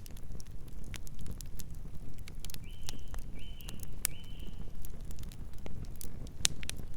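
Campfire burning, wood crackling and popping in sharp irregular snaps over a low steady rumble of the flames. About two and a half seconds in, three short high chirps follow one another.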